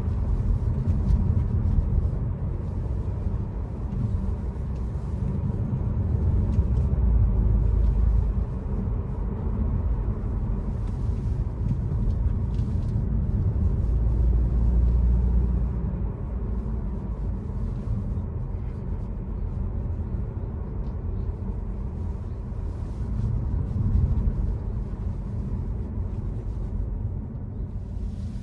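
BMW F30 330i on the move, its 2.0-litre turbocharged four-cylinder droning low through an aftermarket Aura ARP exhaust with road rumble underneath. The drone swells louder a few times, about a quarter of the way in, around halfway, and again near the end.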